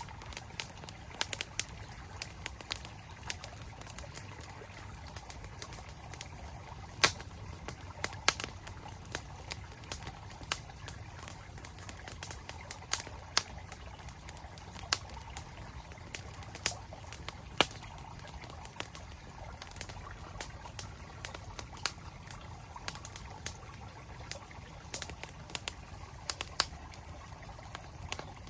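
Campfire crackling, with frequent irregular sharp pops and snaps from the burning wood, over the steady rush of a flowing mountain stream.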